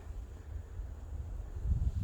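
Wind rumbling on the microphone, a low steady buffeting that picks up in a gust near the end.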